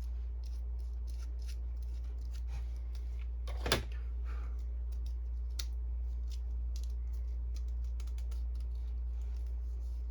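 Small plastic clicks and scrapes from hands trimming and handling a refilled inkjet cartridge, with one sharper snap a little under four seconds in.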